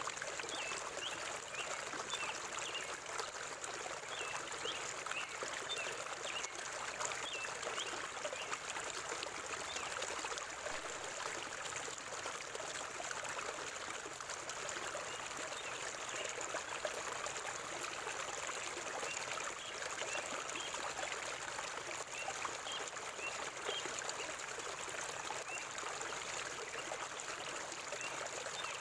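River water flowing and burbling over rocks, a steady rushing sound with small splashes and trickles through it.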